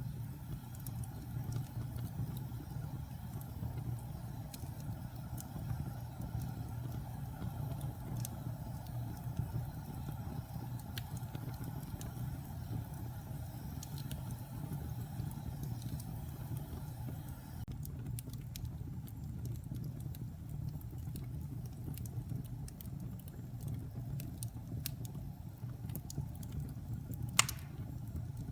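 Wood fire burning in a fireplace: a steady low rumble of the flames with scattered small crackles, and one sharp, loud pop near the end.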